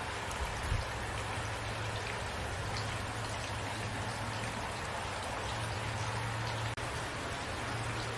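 Steady rain falling, an even hiss with scattered single drops, under a low steady hum.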